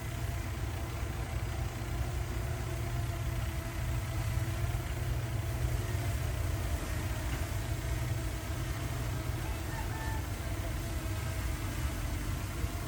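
Heavy diesel engine of earth-moving machinery running steadily, a low even drone.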